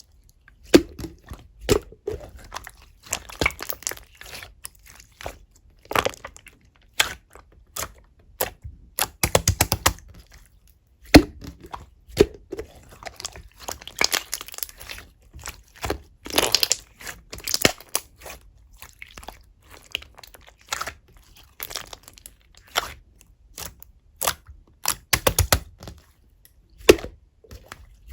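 Chewy clear slime being squished and stretched by hand, giving irregular clusters of sharp pops and crackling clicks.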